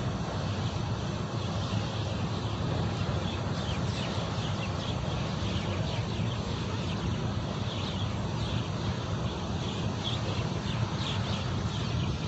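Birds chirping in quick, short, high calls that repeat from a few seconds in, over a steady low rumble.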